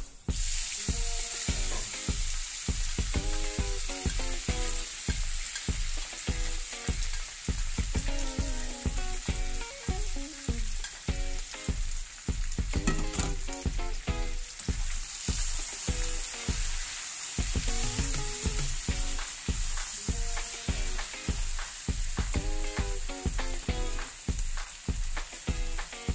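Diced beef skin dropped into a hot pan of sautéed onion, garlic and ginger, sizzling and frying steadily; the sizzle starts abruptly as the meat goes in. A background music track with a steady beat, about two a second, runs underneath.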